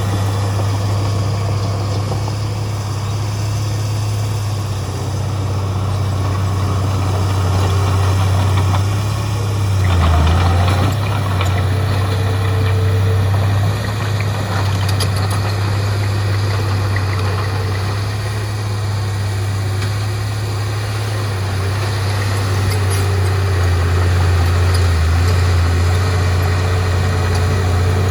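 Heavy diesel earthmoving machinery running steadily with a deep, constant engine hum, with a brief louder surge about ten seconds in.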